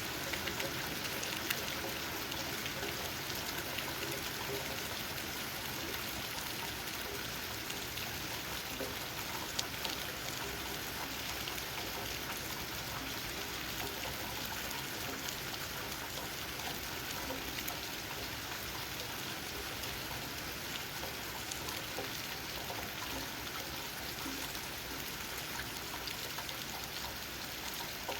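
Steady rain falling, with raindrops tapping on leaves. A couple of louder drop hits stand out, one near the start and one about ten seconds in.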